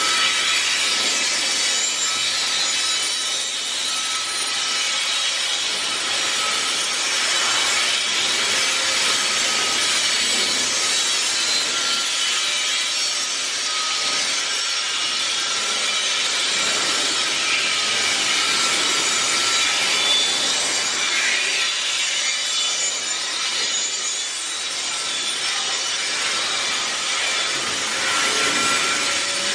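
Heavy freight wagons rolling past close by: a steady grinding rumble of steel wheels on the rails, with thin high squealing tones running through it.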